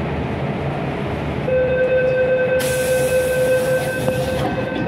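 Inside an MTR M-Train car at a station stop, a steady tone starts about a second and a half in and holds on. A loud air hiss runs under it for about two seconds, over the carriage's low rumble.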